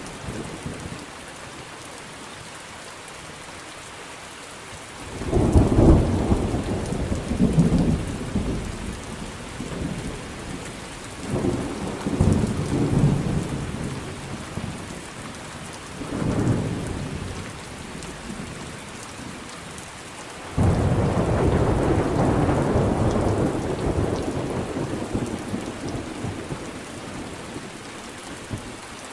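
Thunderstorm: steady rain with rolling thunder. Four rumbles rise over the rain, the loudest cracking in suddenly about five seconds in, and a long one starting abruptly about twenty seconds in and rolling on for several seconds.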